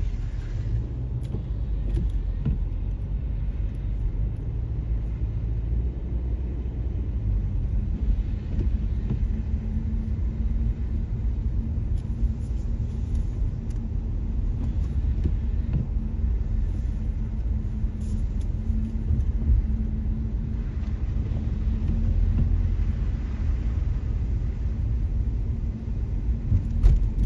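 Car interior road noise while driving: a steady low rumble of the engine and tyres, with a faint steady hum coming in about halfway through.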